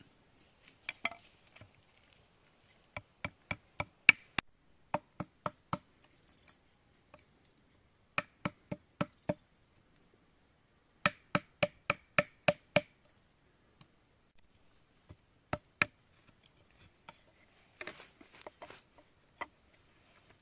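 Sharp wooden knocks in short quick runs of three to eight strokes, about four a second, with pauses between runs, like chopping or tapping on wood. A soft rustle comes near the end.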